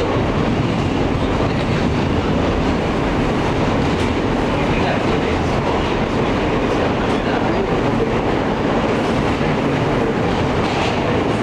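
Inside an Alstom R160A subway car running steadily between stations: a constant rumble of wheels on rail, with a few faint clicks.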